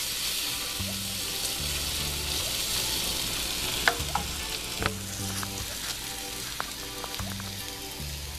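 Okra frying in oil in a nonstick kadai, sizzling steadily as it is stirred with a wooden spatula, with a few sharp knocks of the spatula on the pan about four and five seconds in.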